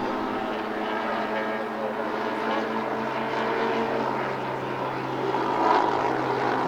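Four-engined 1/6-scale model Avro Lancaster bombers, driven by Zenoah 38 two-stroke petrol engines, drone steadily in flight, several engines running together.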